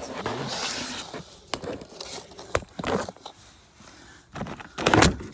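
Hand work in a van's engine bay: a second of scraping and rustling, then scattered clicks and knocks with the loudest about five seconds in, as a part held by zip ties and plastic push-in clips is worked loose.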